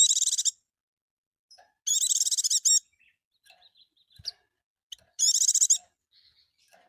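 Pleci (white-eye) singing: three short, fast, high warbling phrases, the first at the start, a longer one about two seconds in and a third near the end, with faint soft chips between them.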